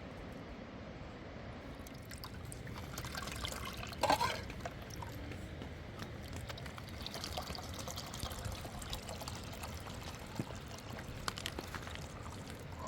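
Liquid pouring and trickling, with small ticks and a louder brief clatter about four seconds in.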